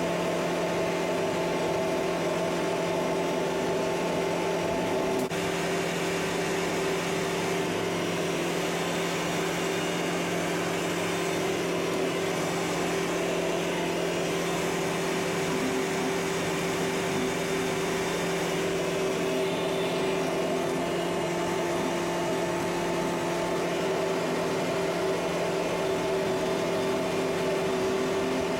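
Kubota MX5800 tractor's diesel engine running steadily at working speed with a steady whine, as it drives the rotary brush cutter; the tone shifts slightly about five seconds in.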